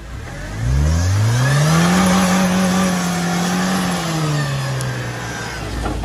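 Jeep Wrangler's four-cylinder engine revving hard about a second in, held high and steady at the rev limiter for about two seconds, then dropping back.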